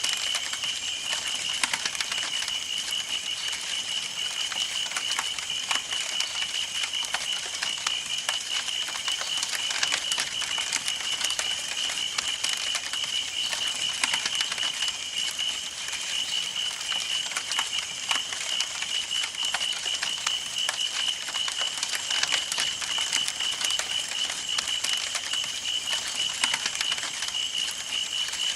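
Campfire burning, the wood crackling and popping in quick, irregular snaps. A steady high, finely pulsing tone runs alongside.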